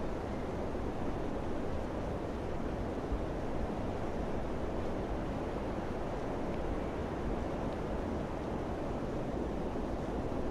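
Steady wind, an even rushing noise heavy in the low end, with no distinct gusts or breaks.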